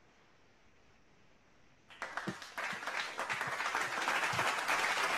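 Near silence for about two seconds, then applause starts suddenly and builds into steady clapping.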